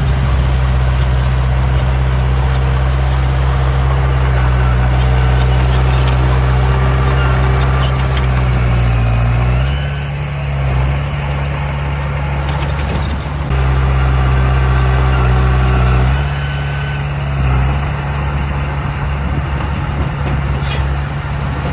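Heavy diesel engine of earthmoving machinery running steadily, its note changing about ten seconds in and again about sixteen seconds in.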